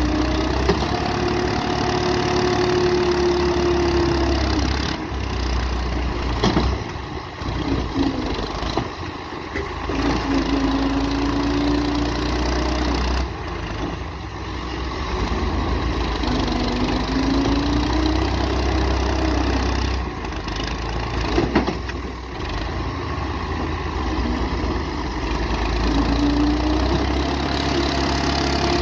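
Massey Ferguson MF 240 tractor's three-cylinder diesel engine running hard under load, its pitch rising and falling several times as the revs climb and sag, typical of a tractor straining to pull a stuck, loaded trolley.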